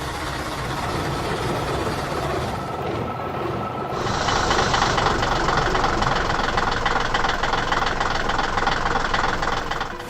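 Heavy construction vehicle engine running with a rapid knocking rattle. About four seconds in it changes abruptly to a louder, brighter clatter.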